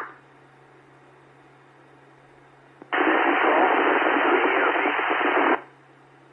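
Two-way radio receiver with a faint hiss and steady low hum, then a burst of static lasting about two and a half seconds from about three seconds in: a weak station keying up from a bad location, too noisy to copy.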